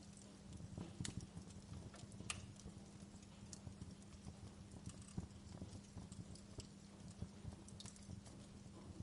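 Fireplace crackling: a faint, irregular run of small pops and snaps over a low rumble, with a few sharper snaps about one and two seconds in and a faint steady low hum beneath.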